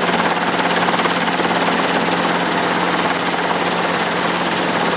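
Helicopter in a hover, heard from inside the cabin: steady, loud engine and rotor noise with a fast, even rotor pulse and a constant low hum.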